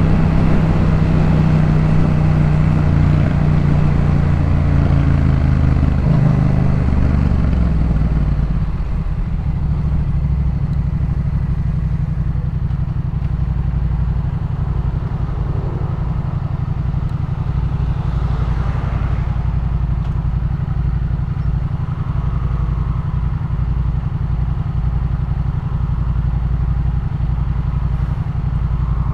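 2018 Yamaha MT-07's parallel-twin engine through a Jeskap K4 full aftermarket exhaust, running louder for the first eight seconds or so, then easing off to a steady idle.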